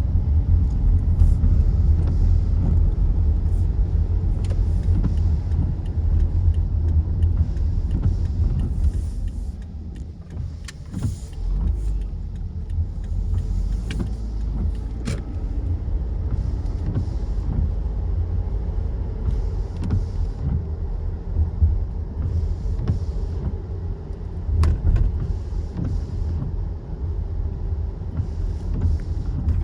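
City road traffic on a wet evening: a steady low rumble of vehicles, with repeated short hisses of tyres on the wet road and a few sharp clicks.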